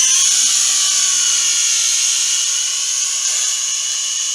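Huajun Toys Flanker W606-5 toy quadcopter in flight, its small electric motors and propellers making a high-pitched whine that holds steady with small shifts in pitch.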